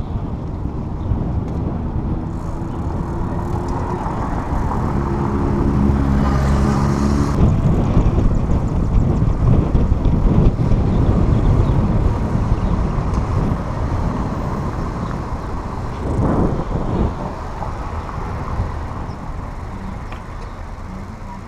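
Road traffic heard from a moving bicycle: motor vehicles passing alongside over a steady low rumble. A vehicle with an even droning pitch passes a few seconds in, and another brief swell of noise comes about two-thirds of the way through.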